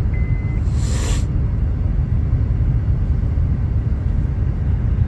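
Steady low rumble of a car's engine and tyres on a snow-covered road, heard inside the moving car's cabin, with a brief hiss about a second in.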